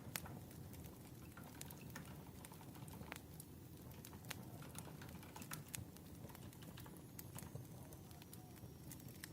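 Wood fire crackling: irregular sharp pops and snaps over a low, steady rush.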